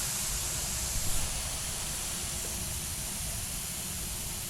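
Air hissing steadily out of a puncture in a bicycle tyre, easing off slightly as the tyre loses pressure.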